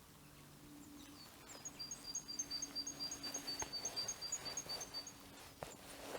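A small songbird singing a rapid run of high, thin notes, about six a second, starting about a second and a half in and lasting roughly three and a half seconds, over a faint steady low hum.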